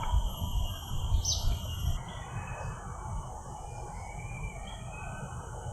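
Wild birds calling: a short, high, falling note about a second in, then faint wavering notes. A low, uneven rumble runs underneath.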